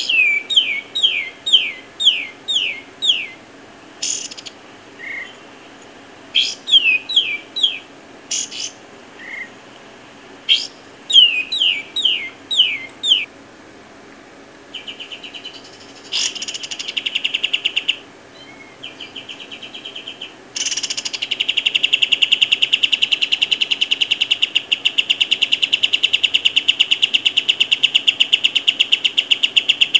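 Bird song: three phrases of six or seven quick down-slurred whistled notes, then, about two-thirds in, a long, rapid, even trill that carries on.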